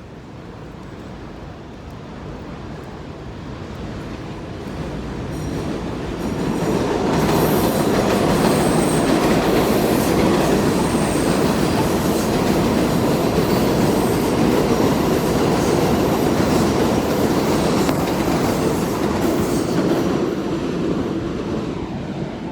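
A train passing close by: its rumble builds over the first several seconds, runs loud with the rattle of wheels on rails and a faint high wheel squeal, then begins to fade near the end.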